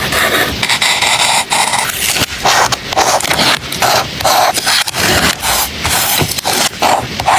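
Close-miked journaling sounds: paper and stickers being handled, peeled and rubbed down, making a run of short scratchy strokes, a few each second.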